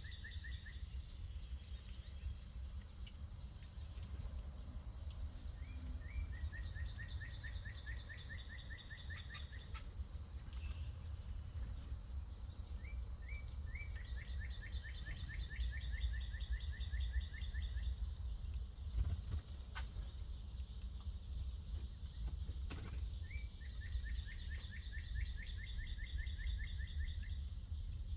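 A songbird singing a rapid trill of quick, even notes, each song two to four seconds long and repeated about four times, with a few higher chirps from other birds, over a steady low rumble.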